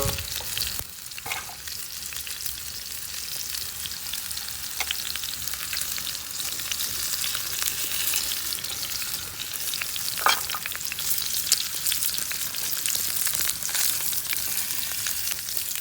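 Steak frying in a skillet over a campfire: a steady sizzle with a few sharp pops.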